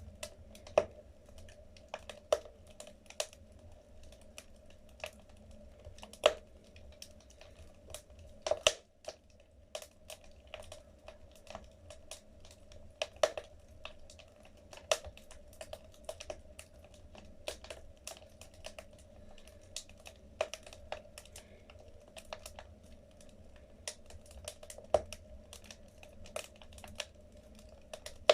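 Wood fire crackling in a fireplace: irregular sharp pops and snaps of burning logs, several a second, with occasional louder cracks over a soft steady hiss of the flames.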